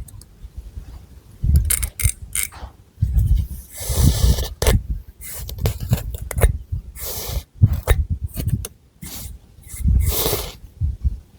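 Long fingernails scratching through thick hair and across the scalp, close to the microphone, in irregular strokes about a second apart.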